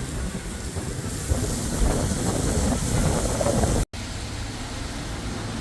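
Wind buffeting the microphone outdoors, an uneven rumble under a steady hiss, cutting out for an instant about four seconds in.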